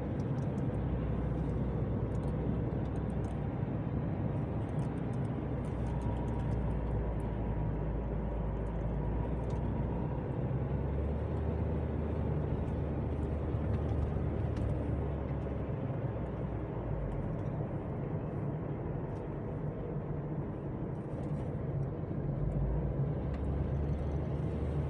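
Car driving along a road, heard from inside: a steady run of engine and tyre noise with a low drone that shifts from time to time.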